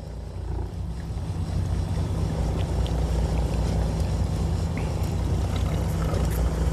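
A fishing boat's engine running with a steady low drone, a little louder from about a second in.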